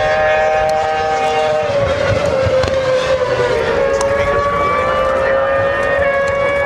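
Racing motorcycles running flat out, a loud, high, sustained engine note whose pitch sags slightly about two seconds in and then holds steady.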